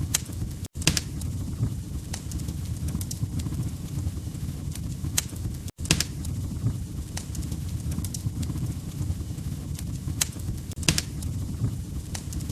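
Log fire crackling: a steady low rumble of flames with scattered sharp pops and snaps. The sound cuts out for an instant twice, about a second in and near the middle.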